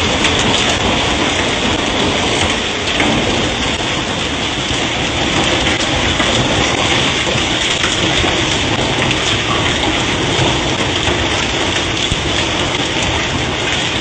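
Hailstones pelting down heavily in a steady, dense clatter of many small impacts.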